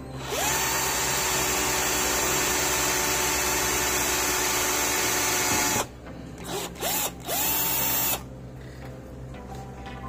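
Swiss Military cordless drill boring a hole through a small acrylic strip: the motor spins up to a steady whine and runs for about five and a half seconds, then stops. Two short blips and a final run of about a second follow.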